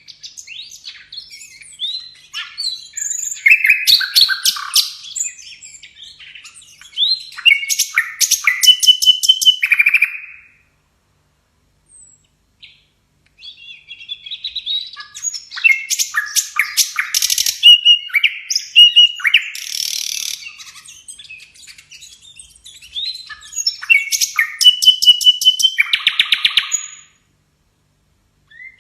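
Sikatan londo songbird singing a vigorous masteran song. Long phrases of rapid chirps, buzzy rattling trills and clear whistles are broken by a short pause in the middle and another near the end.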